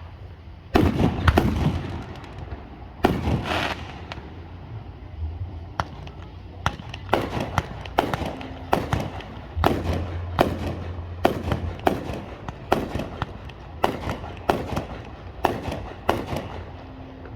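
Aerial fireworks bursting overhead: two crackling volleys near the start, then a steady string of single bangs, about one or two a second.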